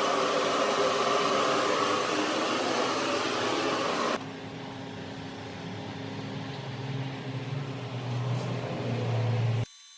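Steady whirring machine noise, like a fan or motor running. About four seconds in it cuts to a quieter whir with a low hum that grows toward the end, then stops suddenly.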